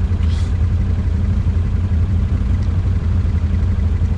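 ATV engine idling steadily with a low, even rumble. A short high chirp comes about a third of a second in.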